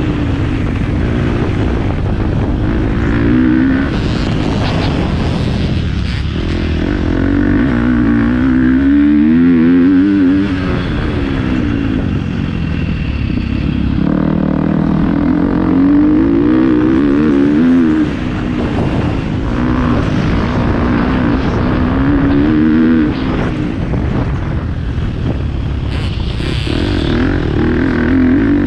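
Motocross dirt bike engine, heard close up from the rider's GoPro, revving up and down over and over as the rider accelerates, shifts and backs off around the track.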